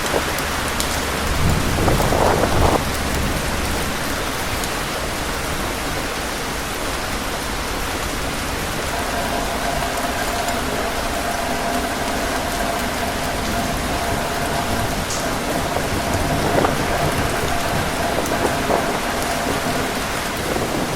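Heavy rain falling steadily, a dense even hiss, with a brief low rumbling swell about two seconds in. From about nine seconds in a faint steady whistling tone sits under the rain.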